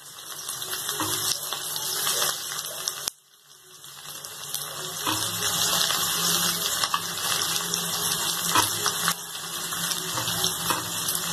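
Sliced onions sizzling in hot oil in a wok, a steady hiss with small crackles. The sizzle cuts out abruptly about three seconds in and swells back up.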